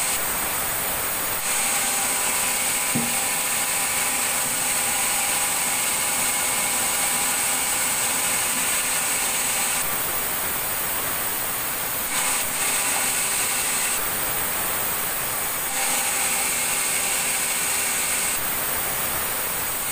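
Sawmill saw machinery running steadily with a high whine, its tone shifting every few seconds.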